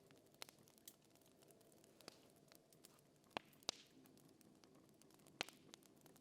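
Faint fire crackling: a handful of sharp, irregularly spaced pops over a low steady hiss.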